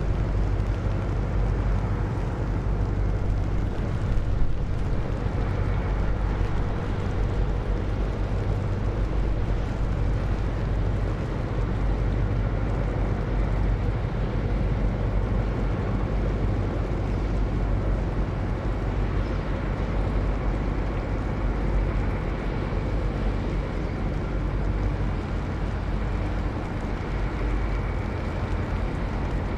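Sand-carrying boat's engine running steadily, a low drone with a few steady tones above it.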